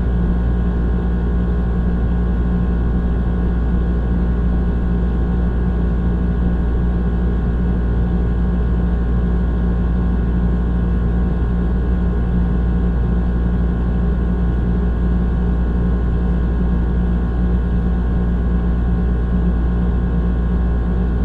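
Old air conditioner running: a steady low hum with a constant drone, unchanging throughout.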